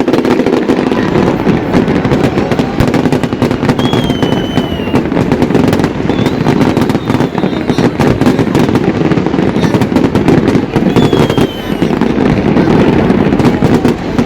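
Fireworks display going off in rapid, overlapping bangs and crackles over a continuous rumble, with a couple of short falling whistles.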